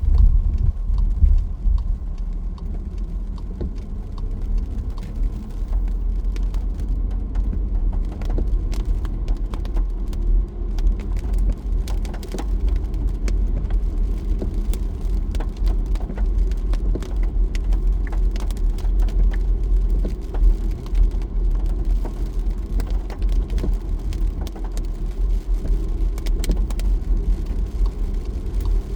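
A car driving in the rain: a steady low road and engine rumble, with scattered ticks of raindrops striking it.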